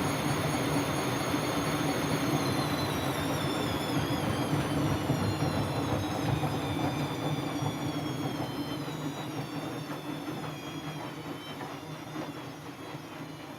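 Siemens Siwamat C10 washing machine slowing down from a spin: the motor's high whine falls steadily in pitch and the running noise fades as the drum slows.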